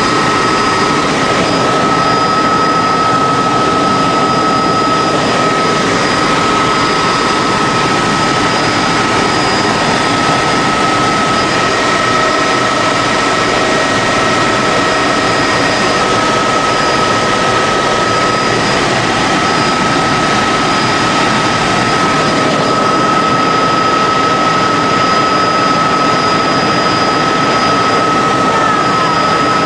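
Helicopter in flight heard from inside the cabin: a loud, steady rush of engine and rotor noise with a constant high whine.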